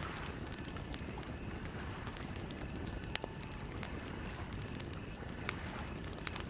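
Campfire crackling, with scattered sharp pops of burning wood, the loudest a little past the middle, over a steady low rumble.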